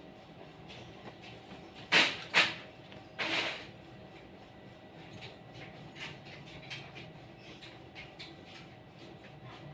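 Two sharp knocks in quick succession, followed by a brief scraping rattle, over faint scattered bird chirps.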